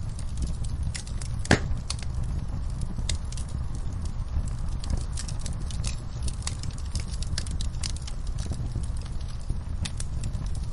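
Wood fire in a fireplace crackling, with irregular small pops over a low steady rumble. One louder, sharper pop comes about a second and a half in.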